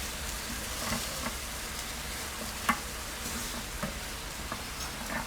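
Chicken pieces sizzling steadily in oil with a fish-sauce-and-sugar seasoning in a frying pan over turned-down heat, with a few sharp clicks, the loudest about halfway through.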